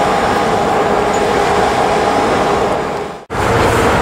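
Steady city street noise with passing traffic and a constant droning hum. The sound drops out abruptly for a moment about three seconds in, then resumes.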